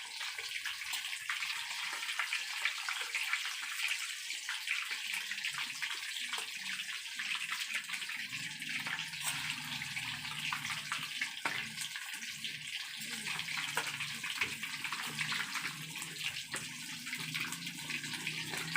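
Cornstarch-coated chicken pieces deep-frying in hot oil: a steady, dense crackling sizzle. A low hum comes in about eight seconds in.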